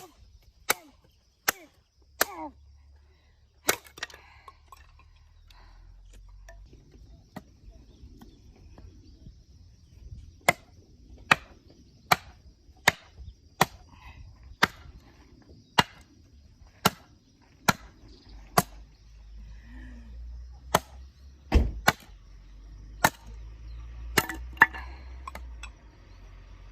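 Splitting firewood: an axe blade striking wood in sharp, repeated chops about once a second, with a pause part-way through and one heavier, deeper blow near the end.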